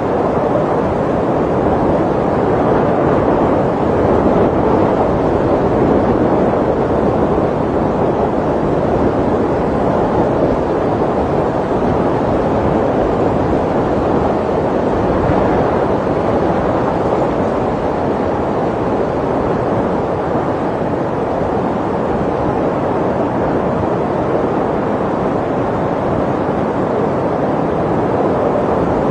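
Snowstorm wind blowing steadily: a dense, even rushing noise that holds at the same strength throughout, without distinct crackles or knocks standing out.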